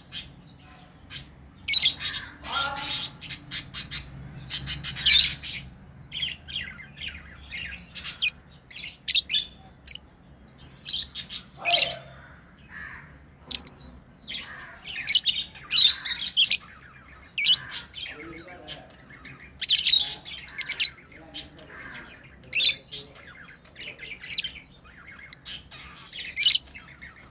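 Pet lovebirds chirping and squawking: a busy, irregular run of short, shrill calls, some in quick clusters.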